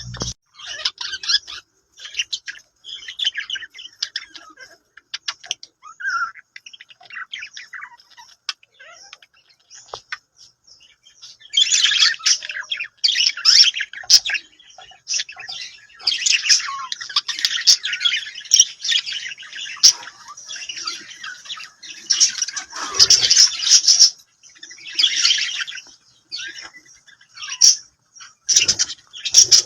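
Budgerigars chattering and chirping. The calls are sparse at first, then from about twelve seconds in they become a dense run of overlapping warbling in bouts of a second or two. A brief low thump comes partway through.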